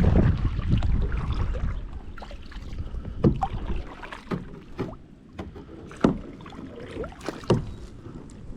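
Canoe on open water: a heavy low rumble for the first two seconds or so, then scattered sharp knocks and clicks against the boat.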